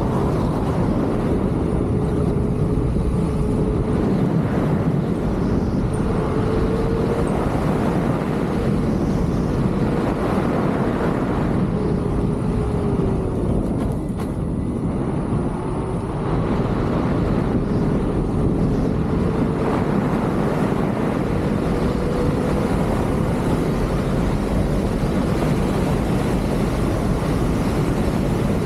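Riding an electric unicycle: wind rushes over the microphone and the hub motor gives a thin whine that rises and falls as the speed changes.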